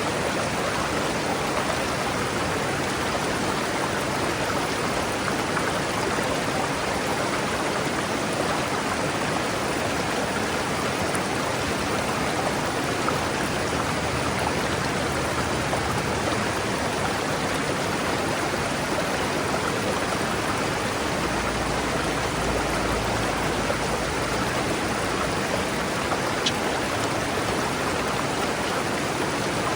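River water rushing steadily over rocks: a continuous, even flow with no change in level.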